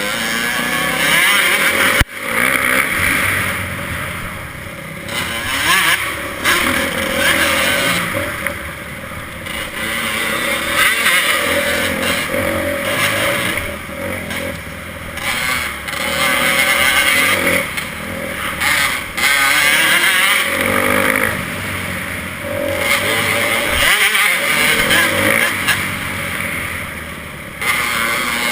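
Motocross bike engine revving up and falling back again and again as it is ridden around a dirt track. There is a single sharp knock about two seconds in.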